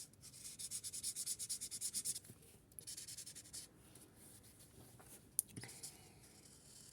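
Felt marker tip rubbing on paper in quick back-and-forth colouring strokes. The strokes are dense for the first two seconds, then come in shorter spells and grow fainter. There is one sharp click about five and a half seconds in.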